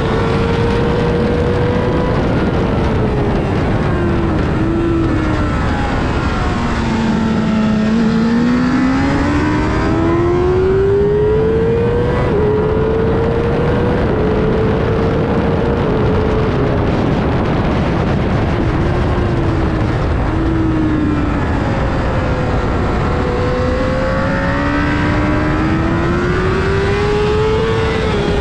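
Sportbike engine heard onboard at track speed: its pitch climbs under acceleration, drops in steps at each upshift, and sinks steadily while slowing for corners. Heavy wind rush runs underneath.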